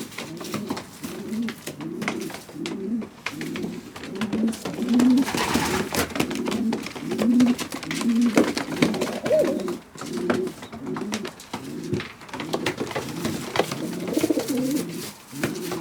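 Several racing pigeons cooing, low warbling coos overlapping one after another throughout, with scattered sharp clicks and taps among them.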